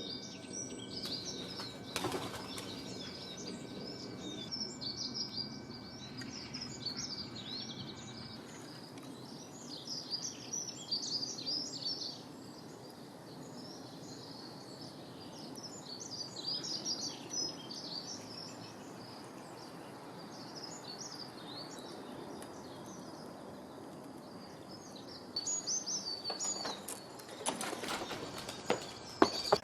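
Many small birds chirping and twittering in a busy chorus over outdoor background noise. A few short, loud bursts of noise break in near the end.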